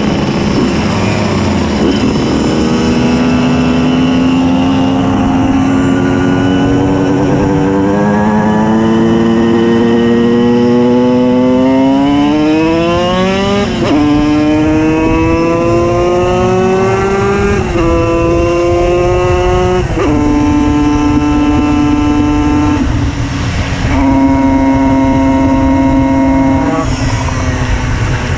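Tuned 90 cc reed-valve two-stroke engine of a Simson S51 moped accelerating through the gears. Its pitch climbs and drops back at each upshift, several times, then holds steady, with a brief let-off near the end.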